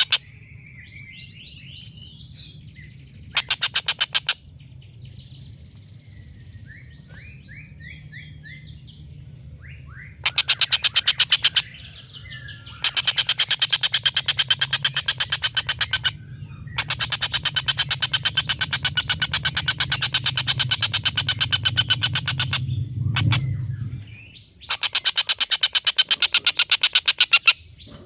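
Tengkek buto (collared kingfisher) giving its long chattering 'ngekek' call: several bursts of very fast repeated notes, each lasting from about one to six seconds, with softer short notes in between. A faint low hum runs underneath.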